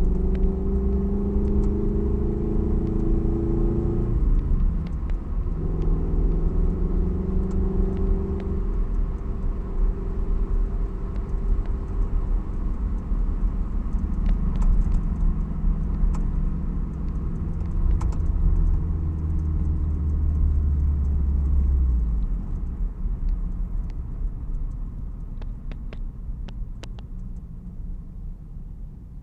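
Toyota 86's FA20 boxer four-cylinder running under way through an aftermarket unequal-length exhaust, giving a steady boxer rumble. The engine note breaks briefly about four seconds in, then runs on. A deeper rumble swells about two-thirds of the way through before the sound steadily dies away over the last several seconds.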